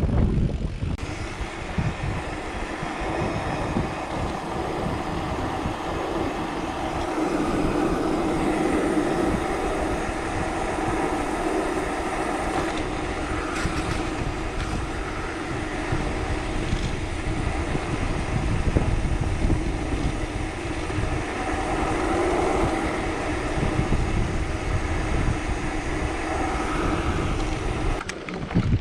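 Wind buffeting the microphone during a ride, a continuous rushing rumble with a steady droning hum underneath.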